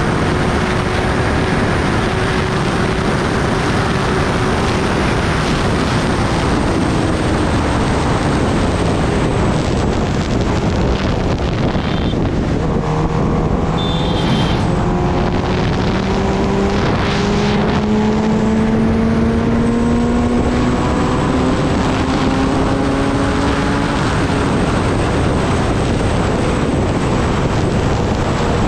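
Wind rushing over the microphone of a moving Kawasaki Ninja ZX-10R, with the bike's inline-four engine underneath. Through the middle stretch the engine note climbs slowly and steadily in pitch as the bike gathers speed.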